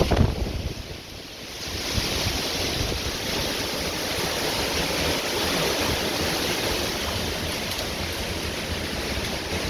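Violent storm: heavy rain pouring down in a dense, steady hiss, with strong wind buffeting the microphone as a low rumble at the start. The downpour swells up about a second and a half in and then holds steady.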